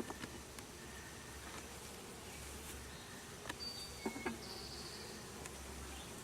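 Honeybees buzzing around an opened hive, a steady hum from a calm colony, with a few sharp clicks about three and a half and four seconds in.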